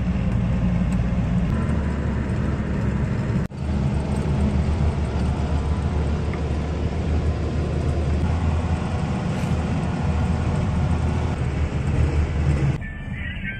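Old Land Rover's engine and drivetrain droning under load inside the cab while climbing a hill road, with the engine not yet warmed up. The sound turns quieter near the end.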